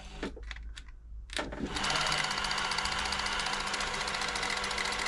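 Silver 1139 sewing machine (a Pfaff Tipmatic under another badge), covers off: a few clicks, then from about two seconds in the motor drives it at steady speed with the needle and cam mechanism clattering rapidly, set on wide stretch stitch.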